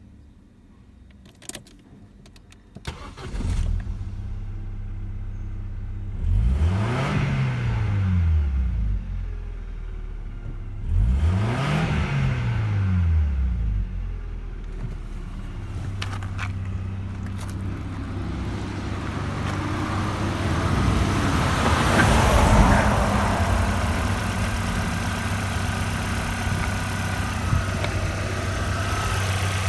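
Opel Omega B's 2.0-litre 16-valve four-cylinder engine (X20XEV) starting about three seconds in and idling. It is revved twice, the pitch rising and falling each time, then settles back to a steady idle.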